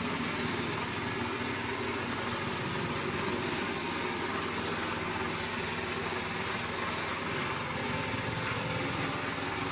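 Diesel engine of a wood chipper running steadily at an even pitch and level.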